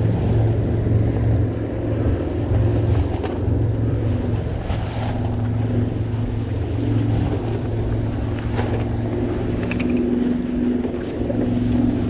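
Steady low motor hum over a wash of wind and water noise aboard a sailboat, with a few light clicks near the end.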